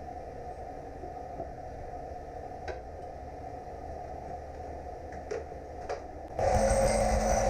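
Steady workshop hum with a few light clicks, then a little over six seconds in a loud crackling hiss with a steady low buzz under it starts suddenly and runs about two seconds: a short welding arc on steel.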